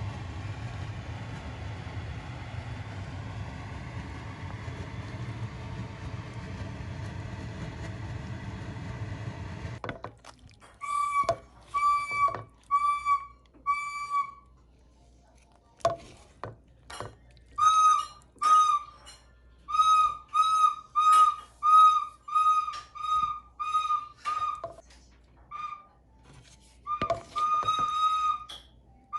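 A steady hiss for about the first third that cuts off abruptly, then a backyard bird calling: runs of short, clear whistled notes, one or two a second, with pauses between the runs.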